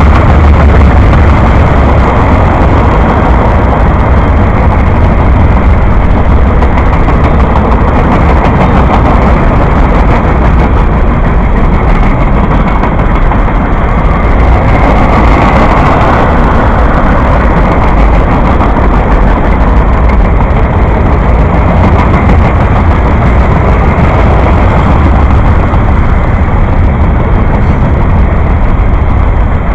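A train passing close by: a loud, steady rumble of locomotive engine and rolling cars that carries on without a break.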